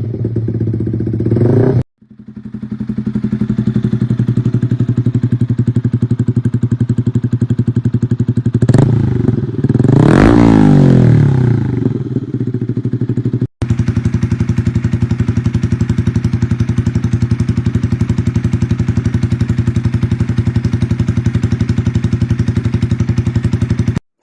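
Yamaha XSR 155 single-cylinder engine running through an aftermarket exhaust, idling steadily. It is blipped briefly, then revved higher and let fall back to idle about halfway through, with the sound cutting out abruptly twice between clips.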